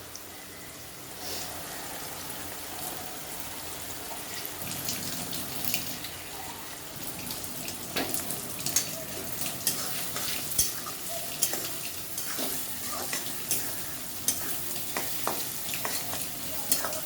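Onions and spices frying in oil in a kadai, a steady sizzle that starts about a second in. A spatula scrapes and knocks against the pan as the masala is stirred, the clicks becoming frequent about halfway through.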